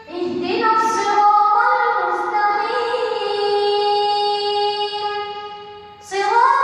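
A single reciter's voice in melodic Quran recitation (tilawa), drawing out long held vowels that step up and down in pitch. It fades just before the end, then resumes on a higher note.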